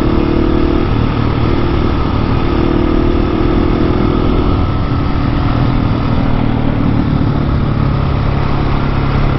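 Husqvarna 701 Supermoto's single-cylinder four-stroke engine running under way at fairly steady revs, its pitch rising and falling slightly.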